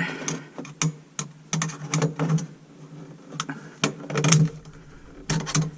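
Irregular metallic clicks and scrapes of a screwdriver working the clip ring of a garbage disposal's sink-flange mounting assembly into place.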